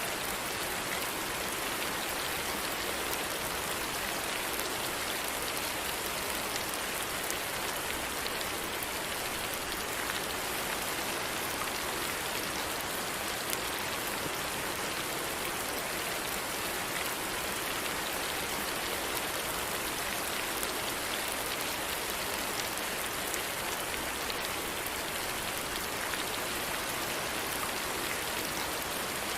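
Steady, even rain falling, with faint pattering drops and no let-up or change.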